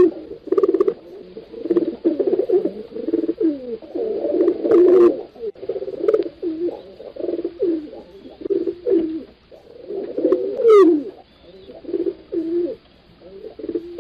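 Several pigeons cooing, low overlapping coos one after another, with a brief high chirp about ten seconds in.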